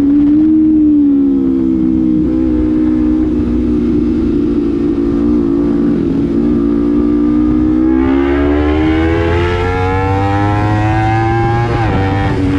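Honda CBR250RR's parallel-twin engine through a Proliner slip-on exhaust while riding. The note sags slowly for the first half, then climbs steadily under acceleration and drops sharply at a gear change near the end.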